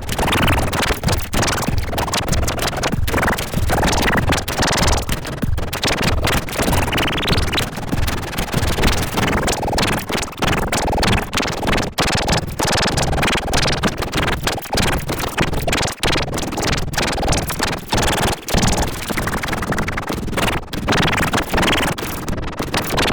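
Harsh, dense noisy cacophony of heavily distorted, layered cartoon audio, crackling with constant sharp clicks throughout.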